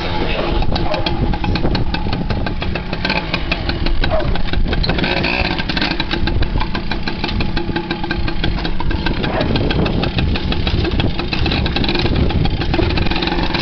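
Small off-road motorcycle engine running steadily at idle.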